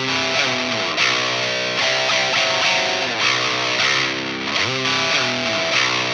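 Electric guitar, a Fender Telecaster tuned down to baritone pitch and strung with flatwound strings, playing chords. It slides up into a new chord right at the start and again about four and a half seconds in.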